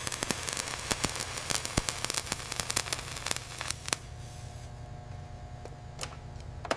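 Dense crackling of sharp snaps that thins out after about four seconds into occasional pops, over a low steady hum.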